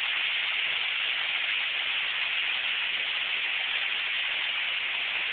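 Torrential rain pouring down in a steady, unbroken hiss.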